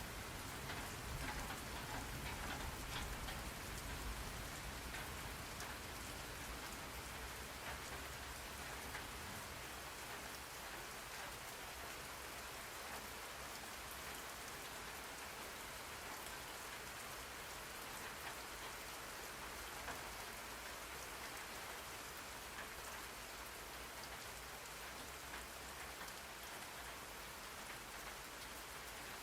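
Steady rain falling, an even hiss of many drops pattering on a surface. A low rumble underneath during the first several seconds fades away.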